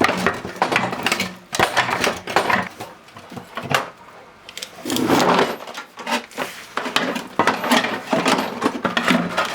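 Rapid, irregular clicking and clattering of small hard objects being handled, with a longer scraping rustle about five seconds in.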